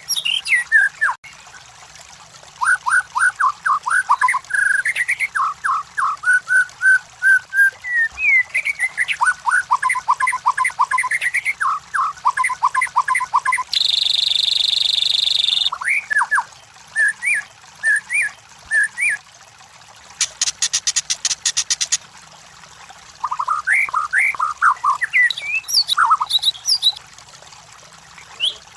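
White-rumped shama (murai batu) singing: bursts of rapid, varied whistled phrases with short pauses between them. About halfway through comes a harsh, buzzy held note, and a few seconds later a fast, high rattle.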